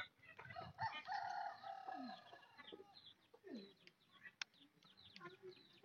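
A rooster crowing faintly: one long call about a second in that falls away at the end, followed by a few short, faint calls.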